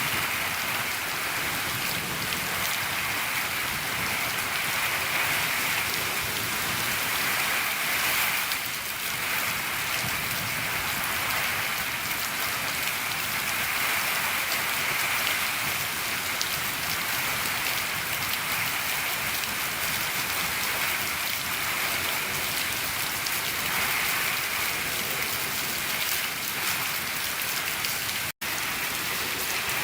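Steady rain falling on a shed roof, a dense even patter. It cuts out for an instant near the end.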